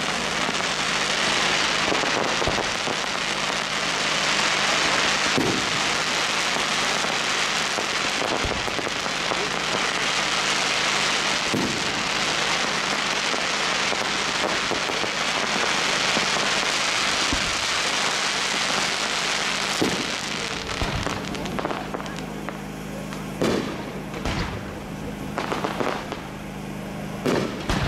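Fireworks going off: a dense, continuous crackling from crackling-glitter effects for about twenty seconds. Then come several separate sharp bangs of bursting shells, with short gaps between them.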